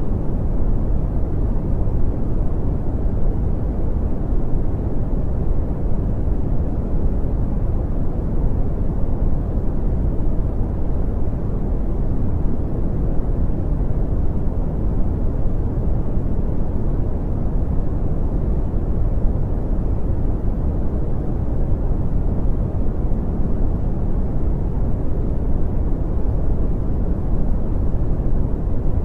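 Brown noise: a steady, deep rumbling hiss with most of its energy in the bass and little treble, unchanging throughout.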